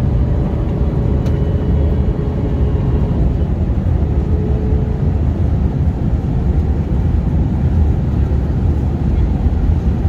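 Steady low rumble and rush of jet airliner cabin noise in flight: engines and airflow heard from inside the passenger cabin.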